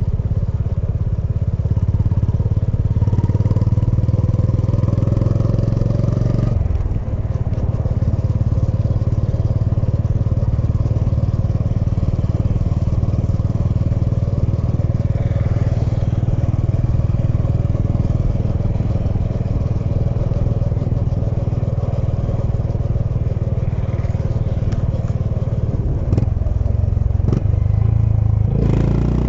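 Honda H'ness CB350's air-cooled single-cylinder engine and exhaust under way on the road. The engine note climbs for the first few seconds, drops out briefly about seven seconds in, then runs steadily.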